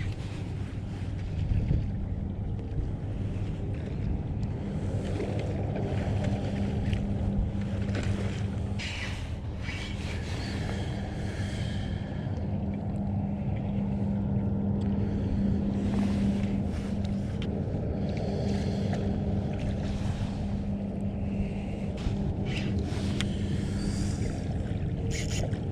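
Wind rumbling on the microphone over open water, with a steady low hum underneath and scattered short clicks and splashes.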